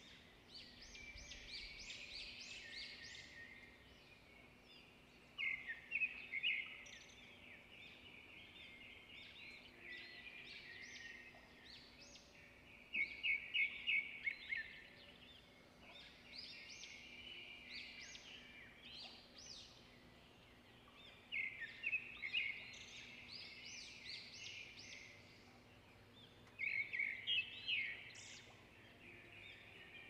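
Wild birds chirping and calling, with louder bursts of fast repeated notes about every seven or eight seconds.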